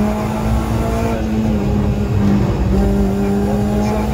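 Renault Clio 3 RS's 2.0-litre four-cylinder engine pulling hard at high revs in third gear, heard from inside the cabin over road and tyre rumble, its pitch holding near-steady with small shifts.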